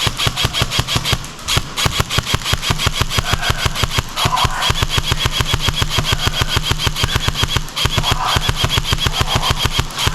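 Airsoft electric rifle firing long full-auto bursts as suppressing fire: a rapid, even stream of shots with brief pauses about a second in, at about four seconds and near eight seconds.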